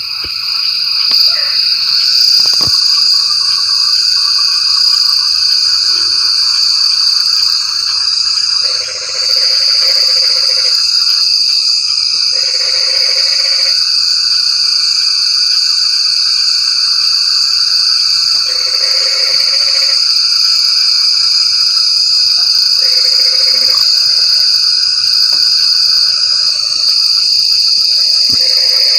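Chorus of frogs calling in repeated bouts of a second or two, over a steady high-pitched insect drone.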